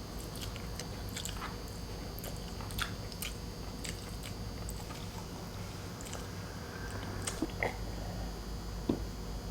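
A person chewing food close to the microphone, with scattered wet mouth clicks and smacks a few times a second, over a steady low hum.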